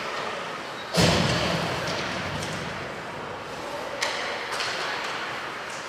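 A loud thump against the ice rink's boards about a second in, ringing briefly, and a smaller knock about four seconds in, over steady arena noise.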